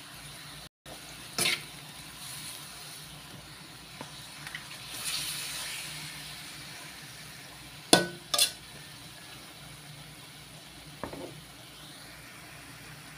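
Chicken pieces sizzling steadily in a metal wok, with a metal spatula knocking and scraping against the pan a few times as the meat is stirred; the loudest pair of knocks comes about eight seconds in.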